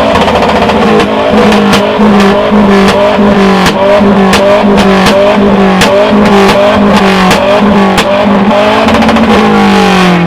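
A modified car engine held at high, steady revs with a loud exhaust that cracks and pops again and again. The revs drop away near the end.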